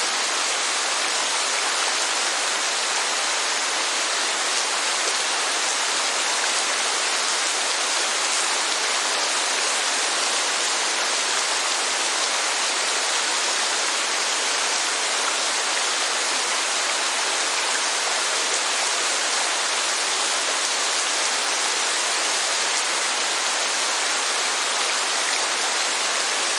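Steady rainfall and falling water, a constant even hiss with no let-up or distinct drops standing out.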